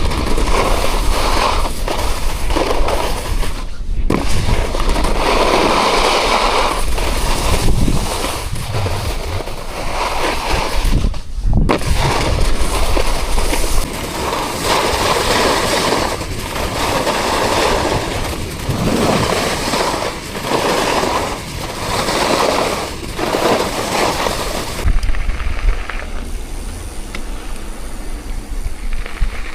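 Loud, gusty wind noise buffeting the microphone, with crackling knocks, rising and falling every second or two and easing off near the end.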